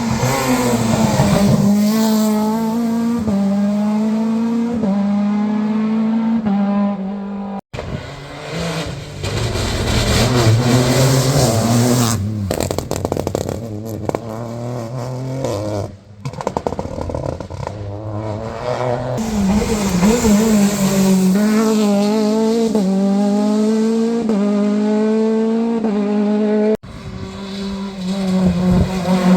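Rally cars accelerating hard out of a wet hairpin one after another, engines revving up through the gears in stepped rises. The sound cuts abruptly twice from one car to the next.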